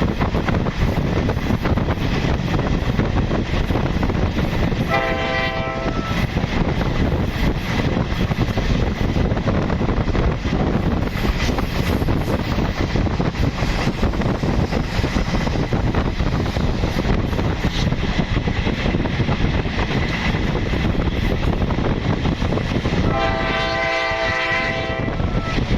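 Diesel-hauled passenger train running past with steady wheel and engine noise, sounding its horn twice: a short blast about five seconds in and a longer one of about two seconds near the end.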